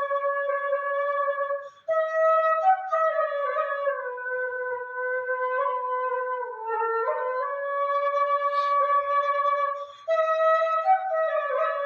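A flute playing a slow single-line melody, with notes that slide from one pitch to the next; it breaks off briefly twice.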